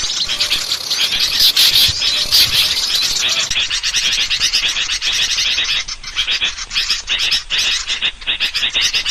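A dense chorus of many small birds chattering and calling at once, with rapid, overlapping high notes throughout. It is a bird-lure recording used to attract small birds.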